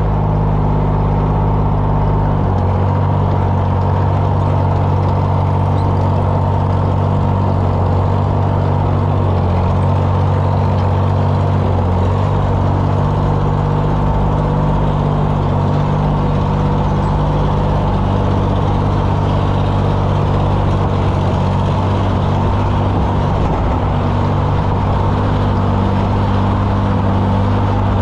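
An engine running steadily at a constant speed, with an even hiss above its note.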